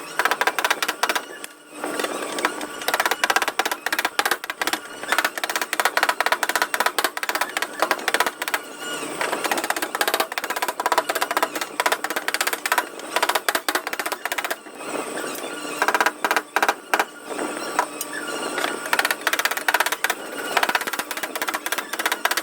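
Rapid light tapping on a car's sheet-metal panel, many taps a second with a few brief pauses, from paintless dent repair tools working the dent.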